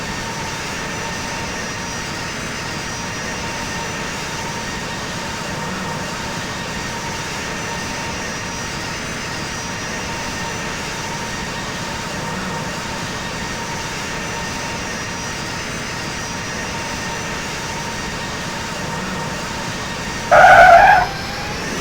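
Steady jet airliner noise with a faint, even whine over it. Near the end a brief, loud pitched tone cuts in.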